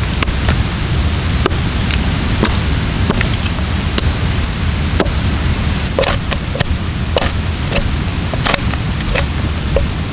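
Axe strokes biting into a log, sharp irregular chops about one a second, some heavier ones in the second half. Under them runs a steady rushing noise.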